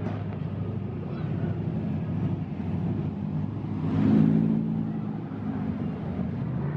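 A car engine running steadily at a low, even speed, rising briefly in level about four seconds in.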